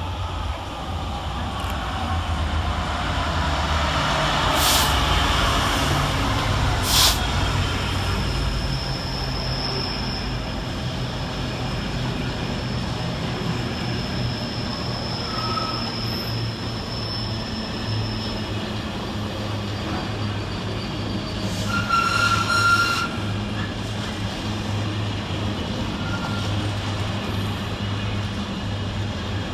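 Two Class 66 diesel locomotives with EMD two-stroke V12 engines hauling a freight train past: a steady low engine drone under the rumble of the passing wagons. Tones fall away over the first few seconds, there are two sharp clanks a few seconds in, and a thin high wheel squeal runs for several seconds. A short burst of high clanking comes a little past the middle.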